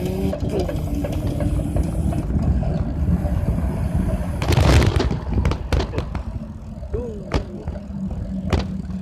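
Riding noise from a moving bicycle picked up by a phone: a steady low rumble, with the bike and the loose things in its basket rattling and knocking. The loudest clatter comes about halfway through, followed by a few sharp knocks.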